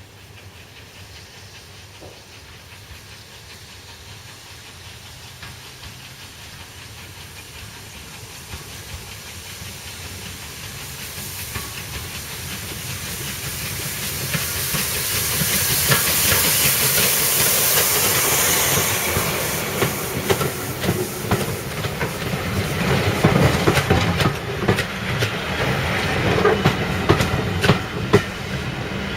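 Steam train approaching and passing, getting louder to a peak of steam hiss about two-thirds of the way through. It is followed by rapid clicking and knocking of wheels over rail joints as the carriages go by.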